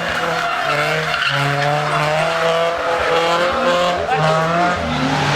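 Drift car's engine held high in the revs, pitch rising and falling as the throttle is worked, with tyres skidding and squealing as it slides through a hairpin.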